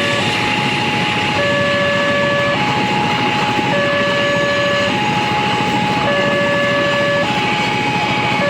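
Electronic warning alarm of a Wantech railway level-crossing gate sounding: alternating high and low tones, each held a little over a second, repeating evenly. The crossing is active, with the steady noise of a passing train under it.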